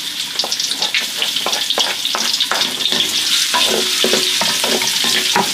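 Shallots and garlic sizzling in plenty of hot oil, a steady frying hiss. A spatula stirs and scrapes against the pan in quick, irregular clicks and scrapes.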